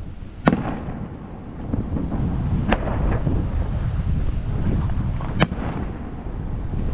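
Fireworks bursting overhead: three sharp bangs, a couple of seconds apart, each with a ringing echo, over a low rumble of wind on the microphone.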